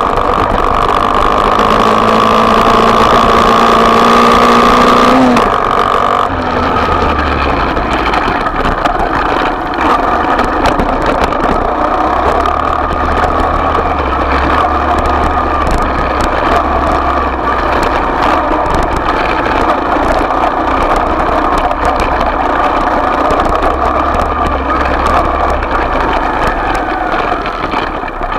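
Small dirt-bike engine held at raised revs, pitch creeping up for about five seconds, then dropping back sharply and running on steadily.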